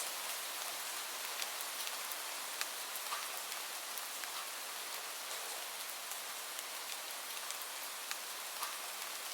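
Steady rain falling, a fine hiss with scattered sharp ticks.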